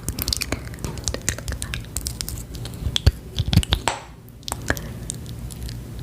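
Close-miked ASMR mouth sounds: a quick, irregular run of wet clicks and smacks, like chewing, with a brief lull about four seconds in.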